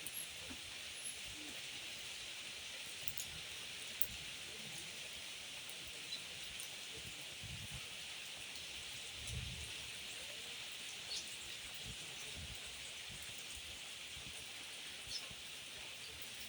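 Steady rain falling, an even hiss with a few scattered drip ticks.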